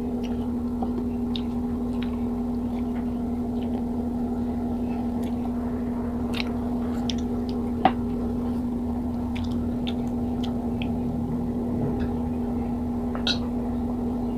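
Close-miked chewing and small mouth clicks of someone eating pineapple, over a steady low hum, with one sharper click about eight seconds in.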